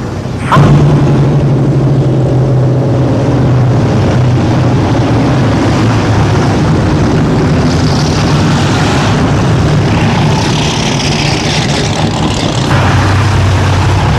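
Engines of a field of race trucks running in a steady low drone at caution pace, rising sharply about half a second in as they come close.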